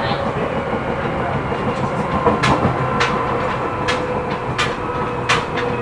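Inside a Seibu New 2000 series electric train running along the track: a steady rolling rumble, with sharp wheel clacks over rail joints at uneven intervals in the second half and a faint steady whine underneath.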